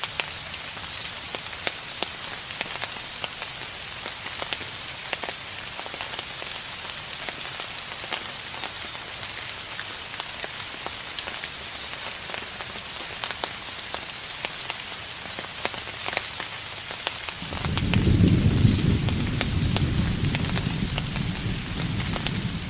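Steady rain with scattered sharp drop ticks. About 17 seconds in, a low rumble of distant thunder rolls in and keeps going, the loudest sound in the stretch.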